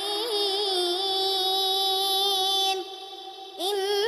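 A young girl's voice reciting the Quran in a melodic chanted style, holding one long wavering note. It stops briefly near three seconds in, then resumes with a rising swoop.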